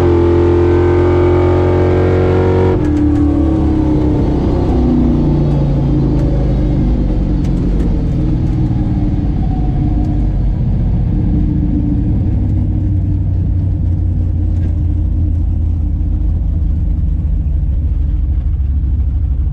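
Drag-racing car's engine at full throttle, then cut off sharply about three seconds in. Its revs then fall away over the next few seconds, leaving a steady low rumble as the car slows from the end of a pass.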